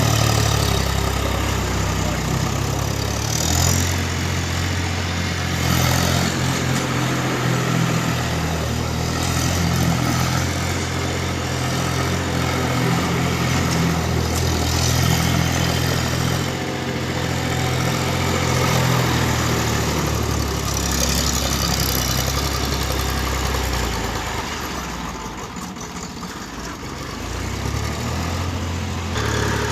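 Tractor diesel engine running, its low note stepping up and down as the engine speed changes. It quietens for a few seconds near the end.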